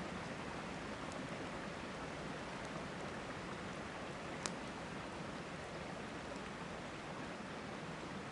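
Steady rush of a flowing river with a wood campfire crackling over it: a few faint ticks and one sharp pop about halfway through.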